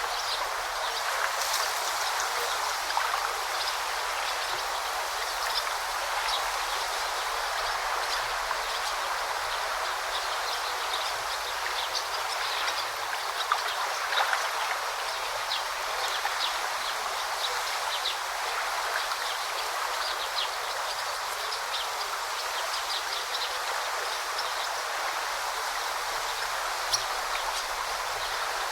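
A forest river or stream flowing steadily, with short, high bird chirps scattered throughout.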